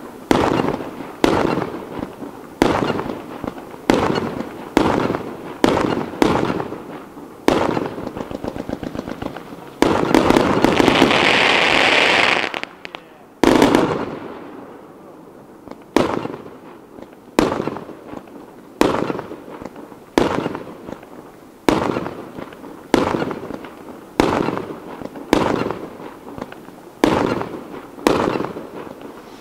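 Aerial firework shells launching and bursting in quick succession, a sharp bang roughly every second. Partway through, a burst of rapid crackling runs into a loud hiss for about three seconds, ended by a single bang, and then the steady run of bangs resumes.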